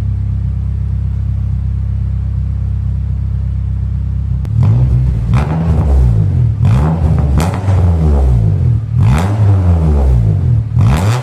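Honda Accord exhaust with a cheap aftermarket cat-back, its muffler packed with cotton as resonating material, idling steadily, then from about four and a half seconds in revved hard several times, the pitch rising and falling with each blip. The revs are a loudness test of the packed exhaust, which is still loud.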